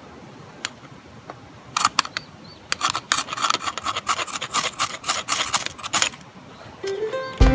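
A quick run of hand-worked scraping or rasping strokes, several a second, lasting about four seconds, then music starts at the very end.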